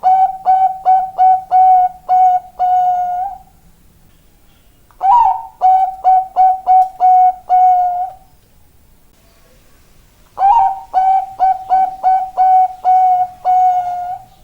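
Zebra dove (perkutut, Bangkok strain) cooing: three phrases about five seconds apart, each a quick run of short coos ending in one longer drawn-out note.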